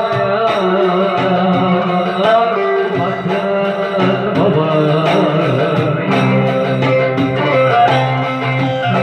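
Electric bağlama playing a Turkish folk melody, a continuous moving tune with a steady accompaniment.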